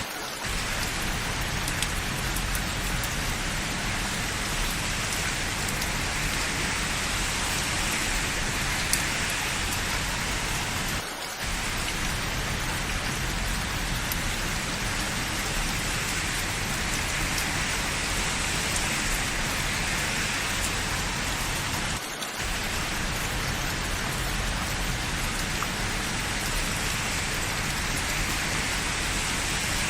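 Steady rain falling on surfaces: an even, continuous hiss, with a brief dip in level twice, about eleven seconds apart.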